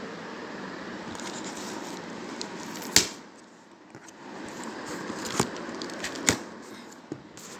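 Handling of a cardboard shipping box and its contents: light rustling, then several sharp knocks, the loudest about three seconds in, over a steady background hiss.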